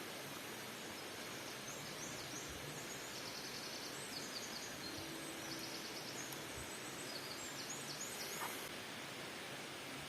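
Bird chirping in short high-pitched trills, from about two seconds in until near the end, over a steady hiss of background noise.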